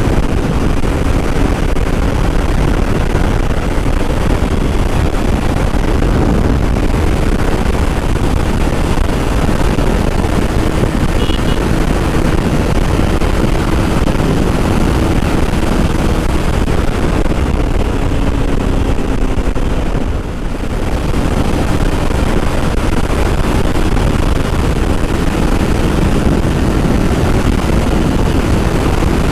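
Kawasaki Ninja 300 parallel-twin engine running at highway speed, buried under loud, steady wind rush on the microphone. The sound dips briefly about two-thirds of the way through.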